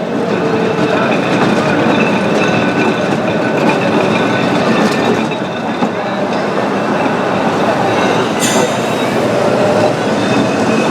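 Tram running on its rails: steady rolling noise with thin, high wheel squeal, and a sharp click about eight seconds in.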